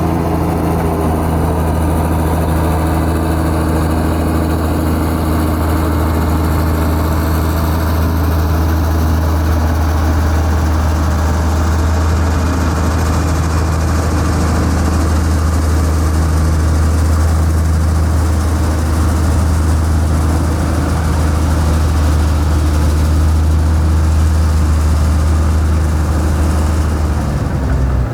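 Heavy diesel engine of earth-moving equipment running steadily at constant speed, a low even drone that holds one pitch throughout.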